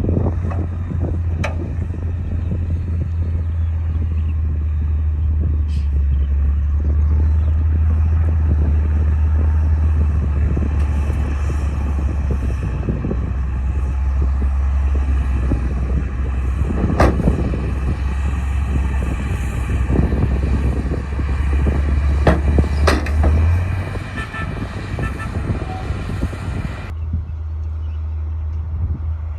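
A bulldozer's heavy diesel engine running steadily with a deep, low drone, its note shifting slightly near the end. A few sharp cracks break through it, the loudest about two-thirds of the way in.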